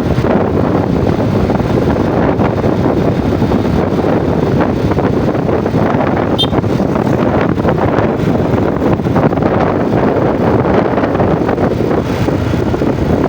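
Yamaha Jupiter MX motorcycle's single-cylinder four-stroke engine running steadily while being ridden, with wind buffeting the microphone.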